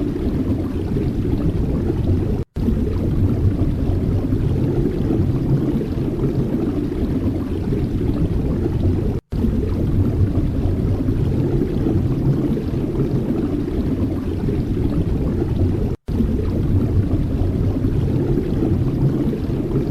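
Strong wind buffeting the microphone: a loud, steady low rumble, broken by three momentary dropouts.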